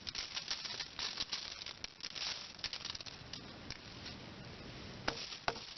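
Onions and mushrooms frying in butter in a pan, sizzling with dense crackles and pops that thin out after about three seconds, then two sharp clicks near the end.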